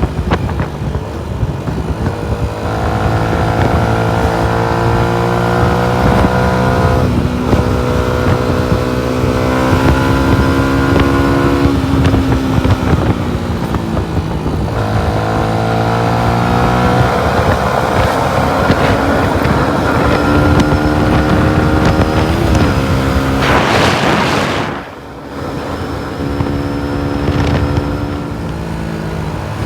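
Yamaha MT-125's 125 cc single-cylinder four-stroke engine pulling through the gears while riding, the revs climbing in several runs with short breaks at the gear changes. About three-quarters of the way through there is a short rush of noise, then a brief dip as the revs drop.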